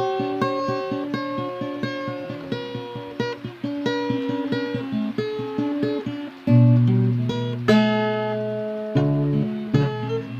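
Acoustic guitar playing a steady run of single picked notes. About six seconds in, deeper bass notes come in, followed by a full strummed chord that rings out, and then picked notes again.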